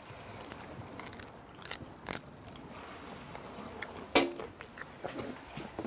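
Close-up chewing of grilled shrimp, with small crunches and wet mouth clicks, and one louder sharp click about four seconds in.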